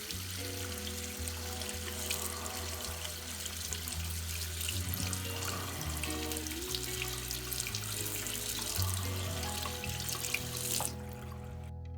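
Tap water running into a sink, rinsing the laser-marking coating off the etched mirror, until it cuts off near the end; background music underneath.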